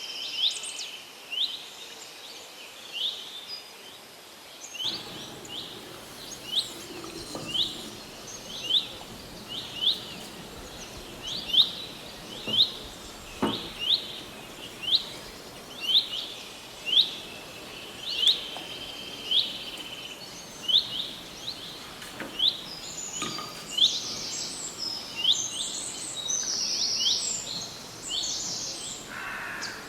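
A bird calling over and over, a short sharp chirp about once a second, with other birds twittering higher up from about two-thirds of the way in, over a steady outdoor hiss.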